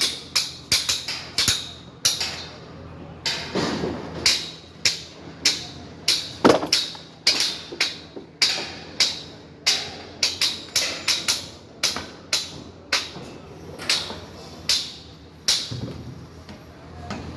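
Repeated sharp hammer strikes on metal, irregular and often several a second, with short pauses between runs of blows.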